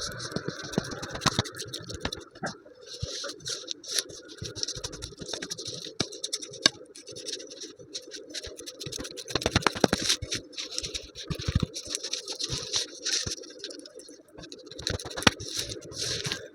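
Close-up hand-work sounds of food preparation: irregular scratching and scraping with many light clicks and taps.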